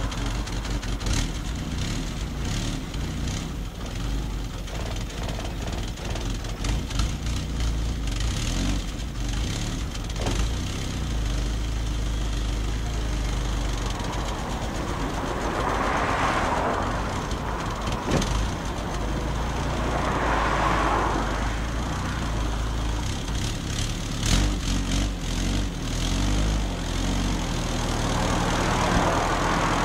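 Dacia car engine running through an aftermarket sport exhaust, idling steadily with a deep, even drone. The sound swells louder three times: about halfway through, a few seconds later, and near the end.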